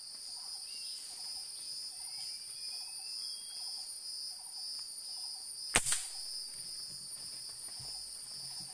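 Steady high-pitched insect chorus in the forest, with one sharp crack about six seconds in.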